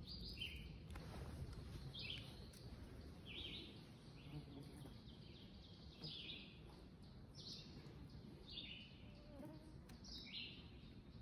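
Faint songbird singing: a short, high chirping phrase repeated about every one to one and a half seconds, over faint low background noise.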